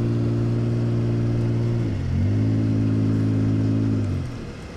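Vehicle engine heard from inside the cabin, running steadily while climbing a hill. About two seconds in its pitch dips briefly and comes back, and near the end it drops again and goes quieter before picking up.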